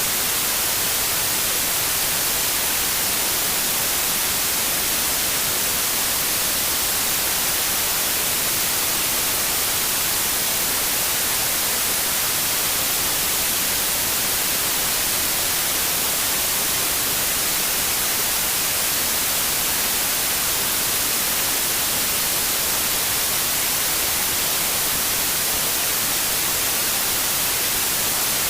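Steady electronically generated white noise: an even, unchanging hiss, brightest in the high end.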